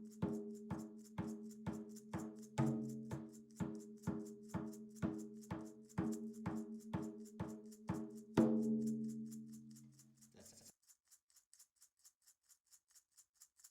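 Steady percussion beat, about two to three strikes a second, each strike carrying a ringing tone. A louder accented strike comes about eight seconds in, then the beat rings down and stops around ten seconds in, leaving only faint quick ticking.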